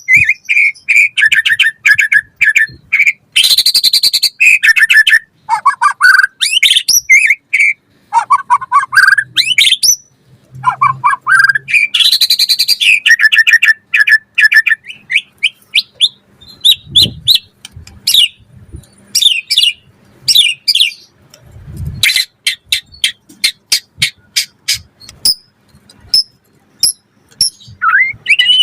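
White-rumped shama (murai batu) singing continuously in rapid, varied phrases of whistles, trills and chatter. About two-thirds of the way in, the song turns into a run of sharp, quick ticking notes, and two brief low thumps are heard.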